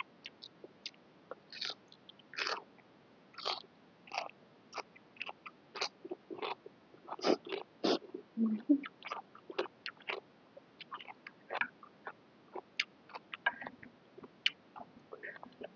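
A person chewing a mouthful of boat noodle soup, with irregular wet mouth smacks and clicks, busiest in the middle.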